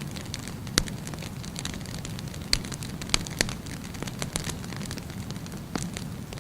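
Wood fire burning with a steady low rush, broken by a handful of sharp crackles and pops, the loudest about a second in.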